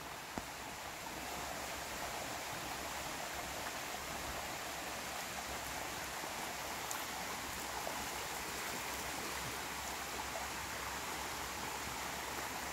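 Steady rushing noise like running water: an even hiss with no distinct events, growing slightly louder about a second in.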